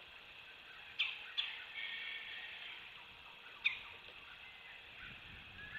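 Three short, sharp bird notes, each dropping quickly in pitch: two close together about a second in and one near four seconds, over a steady faint hiss.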